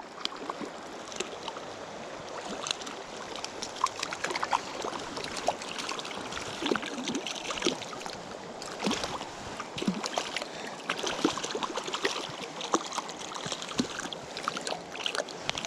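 River water running and babbling over rocks, with many small, irregular splashes.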